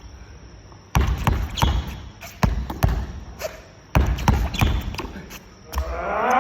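Basketballs bouncing on an indoor court floor: a string of irregular thuds, with a voice calling out near the end.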